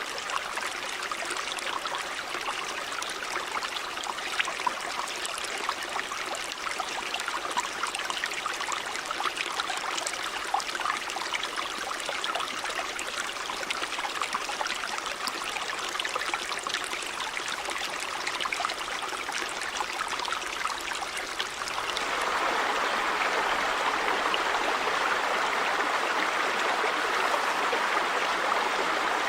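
River water running over rocks, with a steady trickling rush and many small splashes. About 22 s in it jumps to a louder, fuller, more even rush of water.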